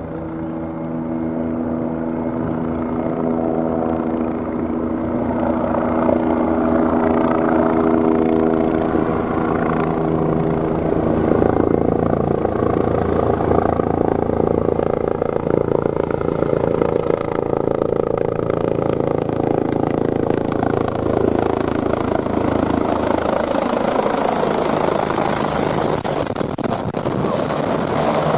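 Helicopter running, growing louder over the first several seconds as a steady hum gives way to denser rotor and engine noise. A thin, high turbine whine comes in about halfway through and grows stronger near the end.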